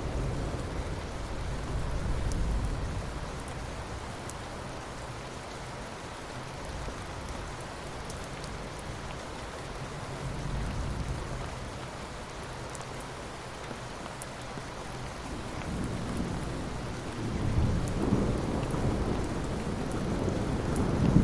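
Rain falling steadily onto ocean water, an even hiss, with a low rumble that swells and fades several times and grows louder near the end.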